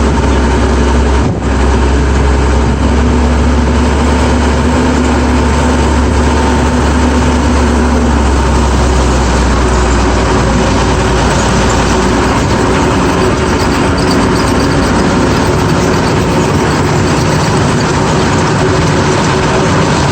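GMC DUKW amphibious truck's straight-six petrol engine running steadily with a deep low drone that eases off partway through.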